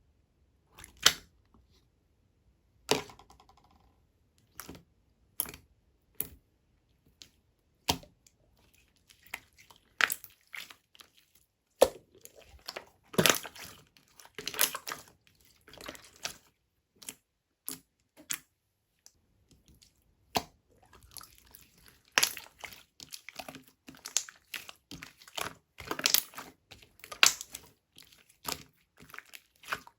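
Yogurt-texture slime being squished and stretched by hand, giving sharp sticky clicks and pops. They come singly and sparsely at first, then thicker and faster over the last third.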